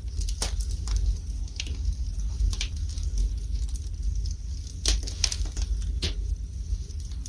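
Wood fire burning in a fireplace, crackling with irregular sharp pops and snaps, a few louder than the rest, over a low steady rumble.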